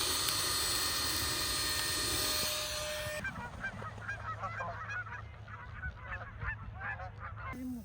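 A steady hiss cuts off abruptly about three seconds in. It is followed by a flock of Canada geese honking, with many short calls overlapping, until it cuts off near the end.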